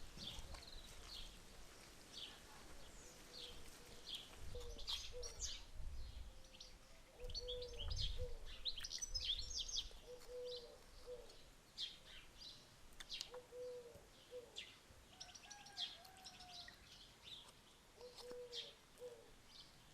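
Birdsong: many short, high chirps and trills, with a lower two-note call repeating every few seconds. It is faint, with a few low rumbles in the first half.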